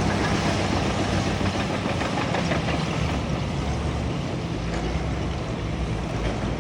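Caterpillar bulldozer's diesel engine running steadily under load, with scattered clanks and rattles.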